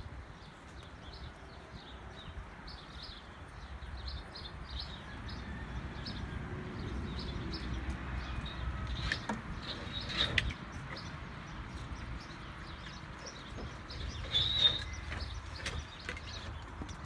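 Small birds chirping over and over, with a steady low rumble underneath and a few sharp clicks; one chirp near the end is louder than the rest.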